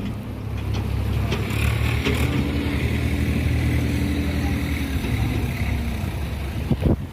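Heavy diesel engine running steadily, with a faint tone slowly falling in pitch through the middle.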